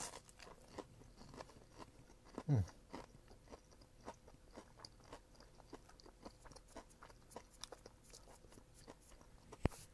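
Chewing a mouthful of crispy panko-fried mangrove snapper: faint crunches scattered through. About two and a half seconds in there is a brief falling hum from the eater's voice, and near the end a sharper click.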